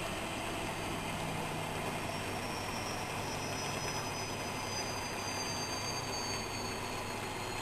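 Whirlpool washing machine running: a steady mechanical hum with a faint high whine that slowly shifts in pitch.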